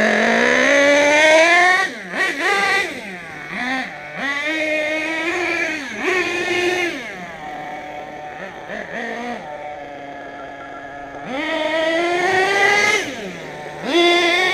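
Small engine of an HPI Savage RC monster truck being revved up and down in repeated bursts: a rev to start, a few quick blips, a steadier low stretch in the middle, then a long rev about eleven seconds in that falls back before another rise at the end.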